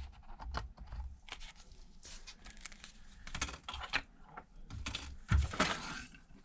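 Plastic film crinkling and tearing in short irregular rustles and small clicks, as the film on an iPad replacement battery is peeled and handled.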